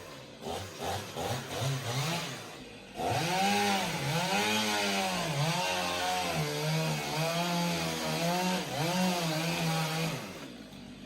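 Two-stroke chainsaw ticking over with a few short throttle blips, then about three seconds in opening up and cutting through a wooden board for some seven seconds, its engine pitch dipping and rising under load over the hiss of the chain in the wood, before easing off near the end.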